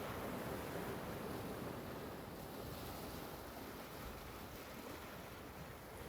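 Ocean surf: a steady rushing wash of waves that eases slightly toward the end.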